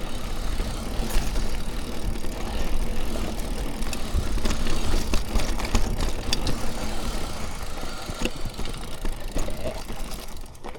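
Mountain bike being ridden along a dirt singletrack. There is a steady rolling rumble of tyres on the trail, with scattered clicks and rattles from the bike's chain and frame, and wind buffeting the microphone.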